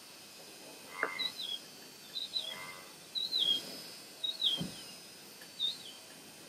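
A bird calling over and over: a short, high two-step chirp that falls in pitch, about once a second. A few lower, shorter notes and one dull low thump come in between.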